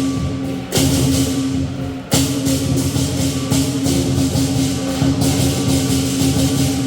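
Lion dance percussion band: drum, gong and cymbals playing a fast, loud rhythm, with strong hits about a second in and again about two seconds in.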